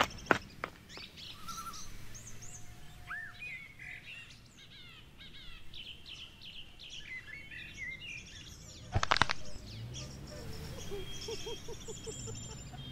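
Birds chirping and calling, with many short whistles and trills. About nine seconds in there is a brief, loud burst of sharp clicks.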